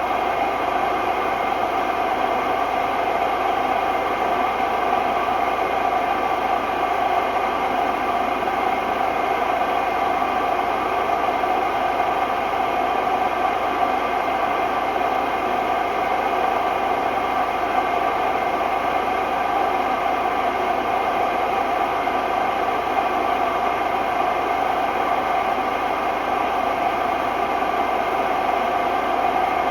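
Hotpoint Ultima WMD960 washing machine on a steady, extremely noisy spin: an unbroken rushing noise with several steady high-pitched tones over it, the sign of bad drum bearings.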